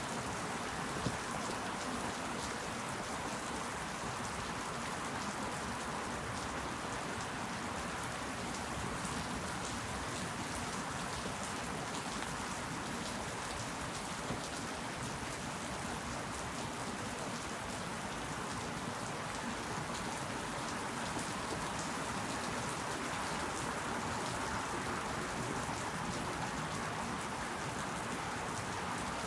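Steady rainfall, an even hiss of many drops falling, with single louder drop hits about a second in and again around fourteen seconds in.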